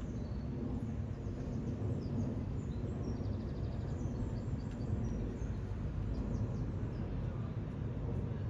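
Steady low rumble of outdoor ambience, with small birds chirping several times, mostly in the first half.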